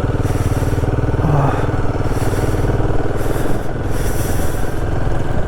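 Royal Enfield Himalayan 450's single-cylinder engine running steadily as the motorcycle is ridden, with patches of hiss coming and going over it.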